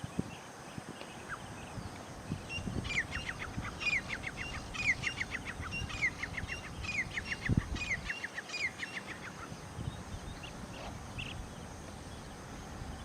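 A bird calling in a fast run of short, downward-sliding chirps for about six seconds, starting about three seconds in, with scattered low thumps, the loudest about two-thirds of the way through.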